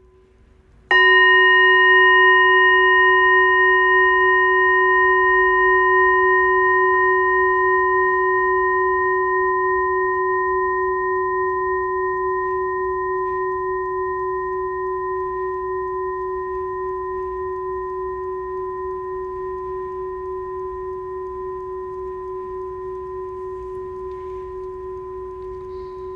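A Buddhist singing bowl struck once about a second in, then ringing on as one long tone with several higher overtones that slowly fade.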